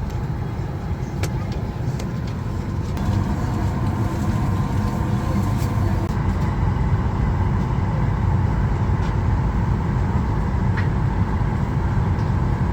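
Steady cabin air and ventilation rumble inside a parked Boeing 737 MAX 8, with a faint steady hum, growing a little louder about three seconds in.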